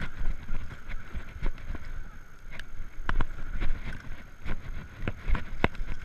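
Riding noise of an electric bike under way: a steady low rumble of wind and road on the microphone, with many short sharp clicks and knocks scattered through, like the bike rattling over bumps.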